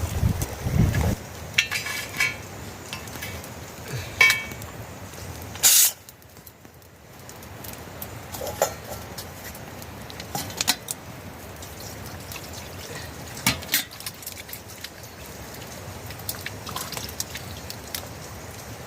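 Kitchen work: scattered short clinks and knocks of dishes and utensils, with water dripping.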